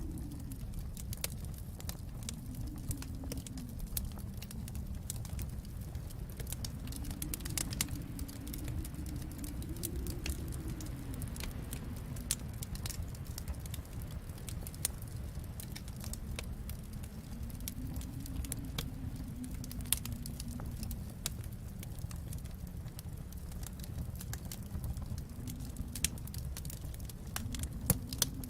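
Wood fire crackling in a fireplace: frequent irregular sharp pops and snaps over a low steady rumble of the flames that swells and eases every few seconds.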